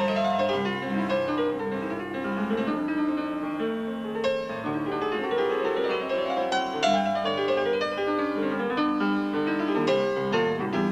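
Piano playing melodic lines and chords in a live rock band recording, heard off an FM broadcast taped on cassette.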